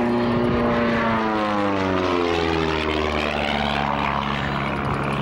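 Propeller aircraft flying past, its engine and propeller note dropping in pitch as it passes about two seconds in, then holding steady as it moves away.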